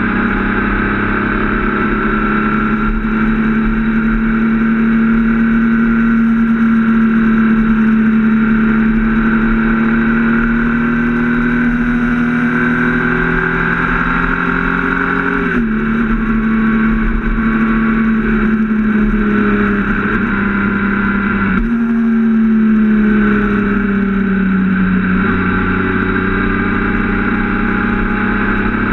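Triumph Speed Triple RS's 1050 cc inline three-cylinder engine running at steady road speed, heard from the rider's seat. About fifteen seconds in its pitch drops suddenly, and about twenty-one seconds in it jumps up suddenly, then slowly falls again.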